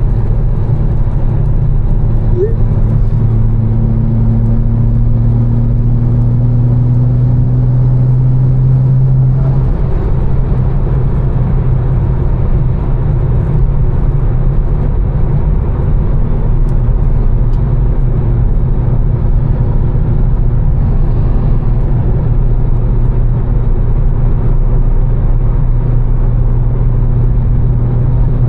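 A tuned BMW M4's twin-turbo inline-six, with catless downpipes and an aftermarket exhaust, drones steadily while cruising, heard from inside the car over tyre and road noise on wet pavement. The engine note creeps up slightly, then drops in pitch about ten seconds in and settles again.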